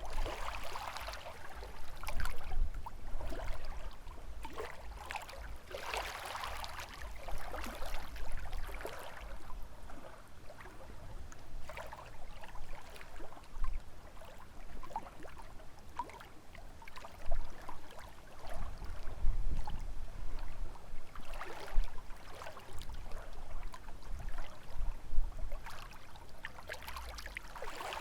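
Small lake waves lapping and splashing at the shore in irregular washes every few seconds, with a low rumble of wind on the microphone underneath.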